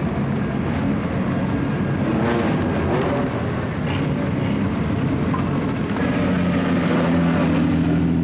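Racing car engines running hard as cars pass, several engine notes overlapping and shifting in pitch. About six seconds in, one steady engine note grows louder and takes over.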